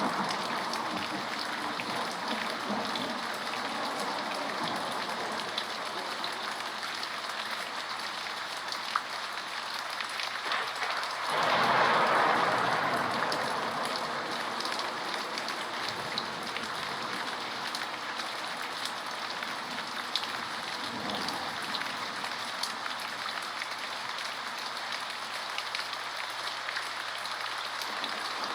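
Steady rainfall, a dense even hiss with an occasional sharp drop hitting close. It swells louder for a couple of seconds about twelve seconds in, then settles back.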